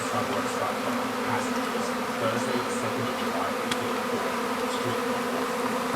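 A honeybee swarm buzzing: a dense, steady hum of many bees flying around and into a spare brood box as the swarm moves in.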